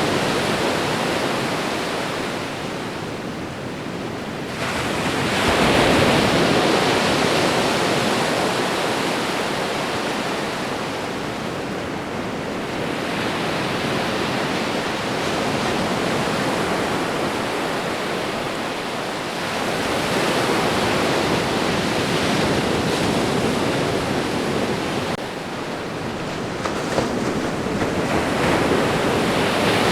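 Ocean waves breaking and washing up a shore, a steady rushing surf that swells and ebbs every several seconds, the loudest surge about five seconds in.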